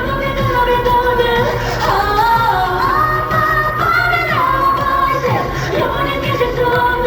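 Pop song with a woman singing a sliding, held vocal line over a full backing track.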